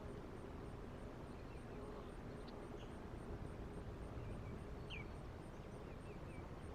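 Steady low outdoor rumble with a faint low hum, over which small birds give short, thin chirps scattered through, the clearest a quick falling chirp about five seconds in.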